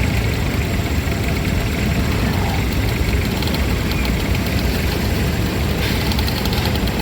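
A heavy old engine running steadily with a low rumble. About six seconds in, a fast, even ticking joins it.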